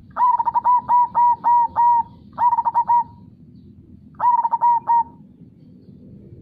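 Zebra dove (perkutut) cooing: three phrases of rapid, ringing coo notes, the first the longest with about six notes, the next two shorter, over the low steady rush of a flowing river.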